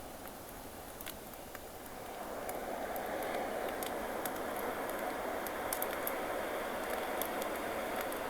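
Campfire crackling with scattered sharp pops over the wash of sea waves. About two seconds in, a wave's rush swells up and stays loud.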